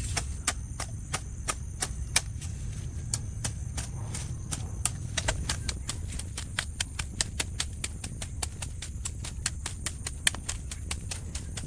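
Rapid, irregular sharp taps, about three to four a second, over a steady high-pitched whine and a low rumble.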